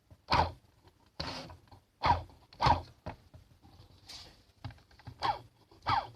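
DJI Phantom 1 brushless motor with freshly lubricated bearings, spun in a series of short whirs, each falling in pitch as the rotor slows.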